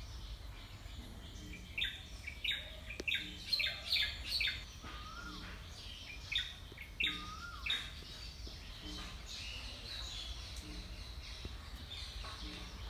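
Birds chirping in quick runs of short, high calls, busiest from about two to eight seconds in, with a couple of short downward-sliding whistles, over a low steady outdoor background.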